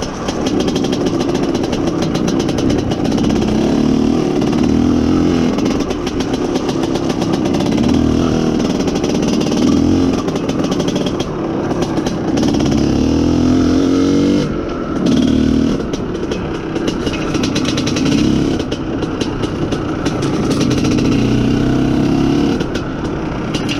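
IZh Planeta Sport motorcycle's single-cylinder two-stroke engine running under way, its revs rising and falling with the throttle, with one clear rising rev around the middle and brief drops in revs a few times. Wind and road noise are heard along with it. This is a test ride after a carburetor jet change meant to cure a lean mixture.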